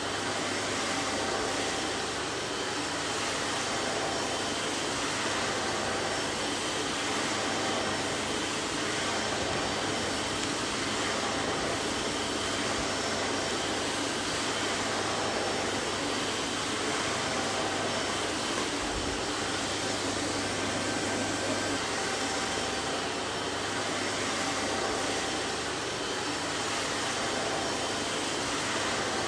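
Vacuum cleaner running steadily: an even rushing of air with a low hum from the motor, unchanging in level.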